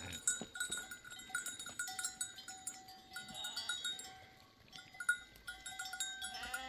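Bells on a moving flock of sheep and goats clinking and ringing unevenly, many small strikes at a few different pitches, with a short bleat or call near the end.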